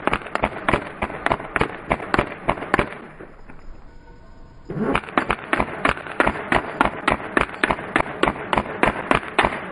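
Airsoft G36C rifle firing on full auto: a rapid, even stream of sharp pops. The firing stops about three seconds in and starts again near five seconds.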